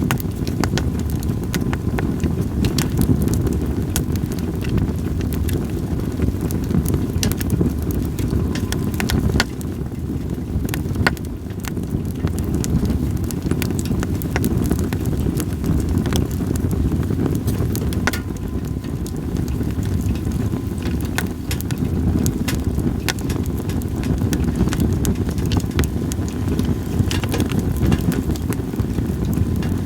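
Split sawtooth oak (kunugi) firewood burning in a campfire, crackling with frequent sharp pops, over a steady low rumble of wind.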